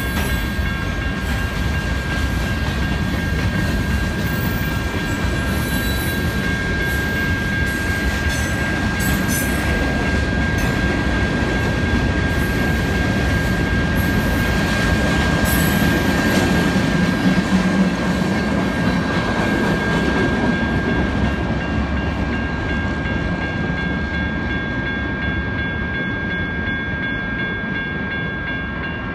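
Tail end of a mixed freight train rolling past, its cars rumbling and clattering over the rails. The sound builds to its loudest around the middle, then fades away as the train clears. Electronic crossing bells (General Signal Type 1 and WCH Type 3) ring steadily throughout.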